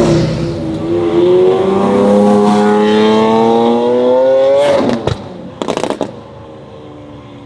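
Lamborghini Aventador's V12 through a Fi aftermarket exhaust, accelerating hard with its note climbing steadily in pitch for about four and a half seconds. The note then cuts off suddenly, followed by a quick run of sharp exhaust crackles and pops, and the engine carries on much quieter.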